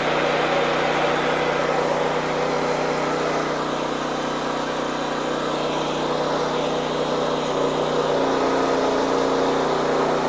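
WoodMizer LX55 band sawmill running steadily as its new blade makes a first cut into a hard hickory log. The engine note shifts about eight seconds in.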